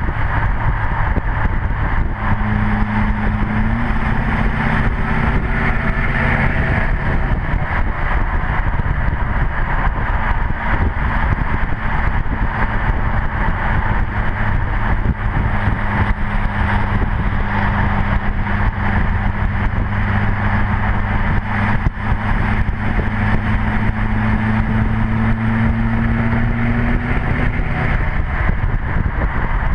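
Straight-piped 2008 LMM Duramax 6.6 L V8 turbo-diesel, with its catalytic converter, DPF and muffler deleted, running steadily under way. Its exhaust drones at a constant pitch after a slight rise in the first few seconds.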